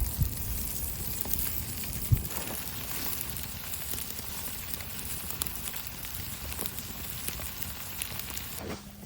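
Wood campfire burning, crackling and popping with many sharp small snaps over a steady hiss.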